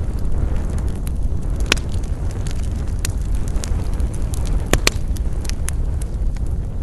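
Wood fire burning with a steady low rumble and frequent sharp crackles and pops, two of the loudest coming close together a little past the middle.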